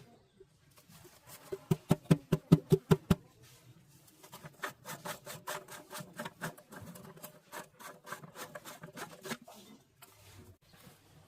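Repeated short rubbing or scraping strokes. A burst of about eight louder strokes comes near two seconds in, followed by a faster run of lighter strokes, about four a second, that stops shortly before the end.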